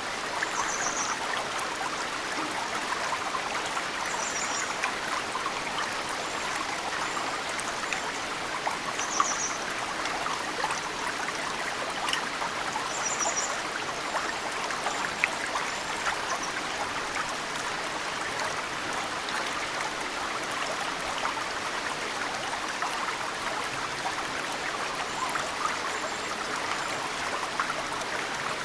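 Mountain stream flowing steadily, with snowmelt drips now and then falling sharply into the water. Short high bird chirps come several times, mostly in the first half.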